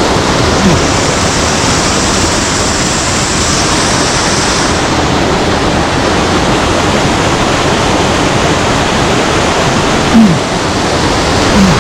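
Mountain stream water rushing over rocks, loud and steady. A few short low falling sounds cut in briefly just after the start, about ten seconds in and near the end.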